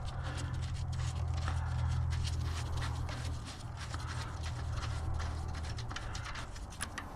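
Small irregular clicks and scrapes of hands and a tool working at a small-engine carburetor while the float bowl is taken off, over a steady low rumble that fades near the end.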